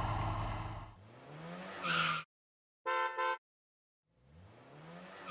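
Steady engine noise fades out in the first second. Then an engine revs up, two short horn beeps sound, and the engine revs up again.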